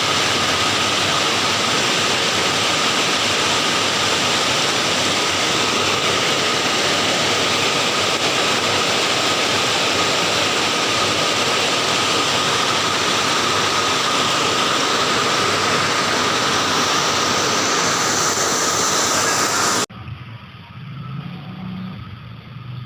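Loud, steady rushing hiss of heavy rain or running water, which cuts off abruptly near the end.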